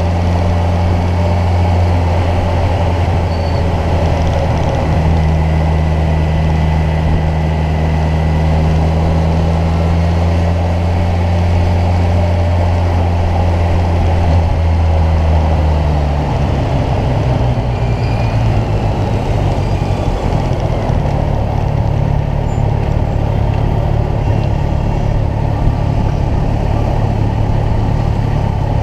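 Kawasaki Ninja 1000's inline-four engine running steadily under way, over a steady rush of wind noise. About halfway through, the engine note changes and then holds steady at the new pitch.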